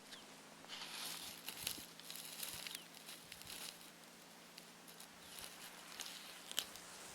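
Footsteps in deep, dry snow at about minus thirty, the snow crunching and squeaking underfoot in uneven steps, with one sharp click about six and a half seconds in.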